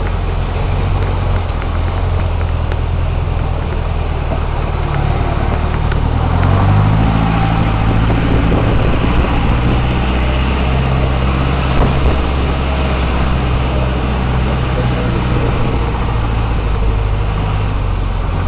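Motor vehicle engine running steadily, its pitch rising about six seconds in as it speeds up, over a constant rushing noise.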